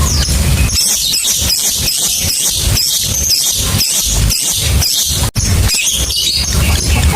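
Lovebird in a long chattering song ("ngekek"): a fast run of shrill, short chirps, with a low rumble underneath. It breaks off for an instant about five seconds in.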